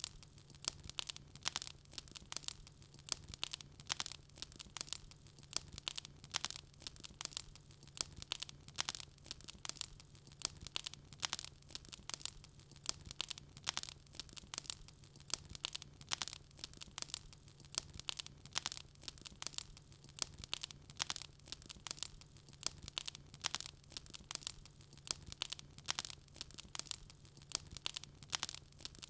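Wood fire crackling and popping steadily in a fireplace, many small irregular snaps a second, over a faint steady low hum.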